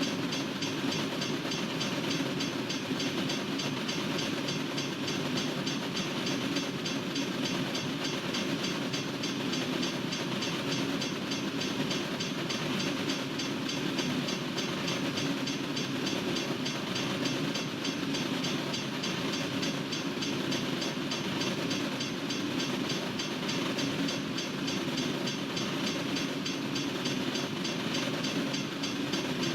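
Freight train cars rolling past at a railroad crossing, a steady, unbroken rumble of wheels on rail.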